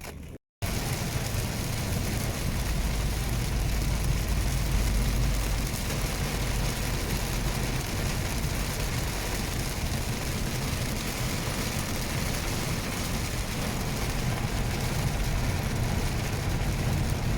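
Heavy rain pouring steadily, an even hiss with a deep rumble underneath.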